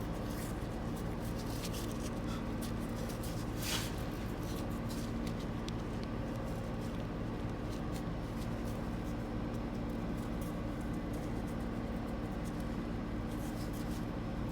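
Scattered light clicks and small rubbing sounds of a rubber shaft seal being worked by hand onto a transmission output shaft and flange, with one short scrape about 4 seconds in, over a steady electrical hum.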